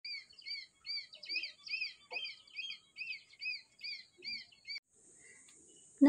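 A small bird calling in a quick run of high, clear chirps, each rising then falling, about two a second. The chirps cut off abruptly near five seconds in, leaving only faint hiss.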